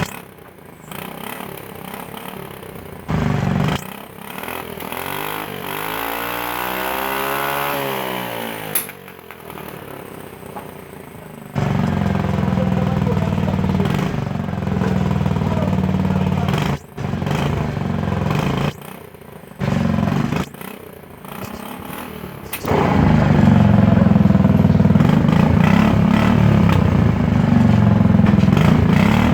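Forza 250 scooter engine running through its exhaust, heard in several stretches that start and stop abruptly, louder and steadier near the end.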